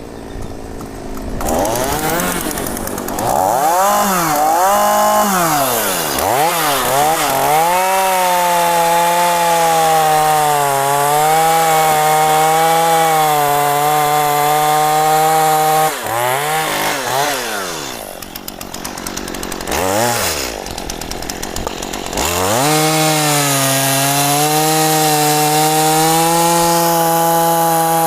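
Two-stroke chainsaw revved up and down a few times, then held at full throttle cutting into mahogany wood. About halfway through the engine drops back and is blipped briefly, then it runs steadily at full throttle in the cut again.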